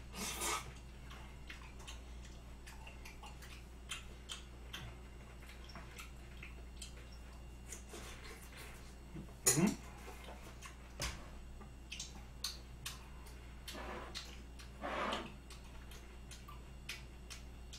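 Close-miked mouth sounds of someone chewing raw beef tartare (yukhoe) with pear: faint, wet clicks and smacks scattered throughout, with one brief louder sound about halfway through.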